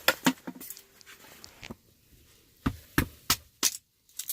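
Sharp wooden knocks and cracks from cedar wood being handled and broken up: a few near the start, then a quick run of four about two-thirds of the way through.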